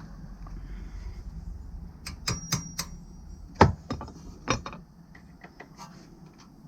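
Metal hand tools clinking and knocking while work starts on a brake caliper's slider bolts: a quick run of sharp clicks about two seconds in, a louder knock near the middle, then a couple more knocks and light ticks.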